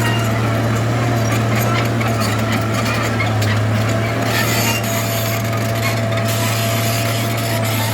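Heavy earthmoving machinery's diesel engine running steadily with a deep hum, with rapid clatter over it.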